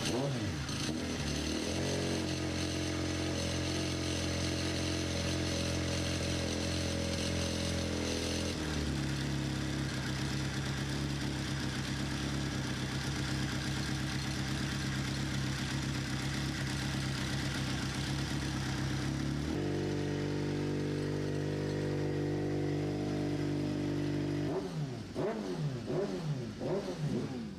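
Kawasaki Ninja ZX-RR MotoGP prototype's inline-four engine running at steady revs that step up or down a few times, then blipped up and down in several quick revs near the end.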